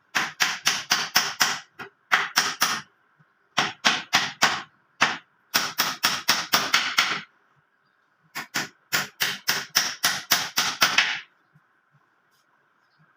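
Hammer striking in quick runs of several blows, about five a second, with short pauses between runs.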